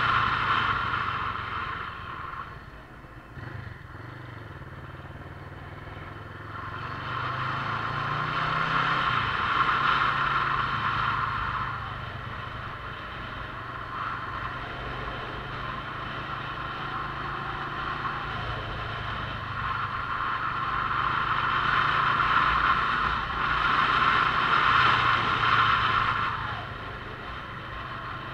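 Motorcycle engine running on the move, its note dipping and climbing several times, with a rush of wind and road noise that swells and fades as speed changes.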